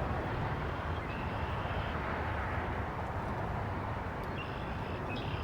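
Steady buzzing of many honeybees around an opened hive, over a low rumble.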